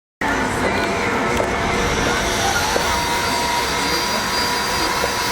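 Steady noise of a steam train, with a faint steady tone coming in about two and a half seconds in.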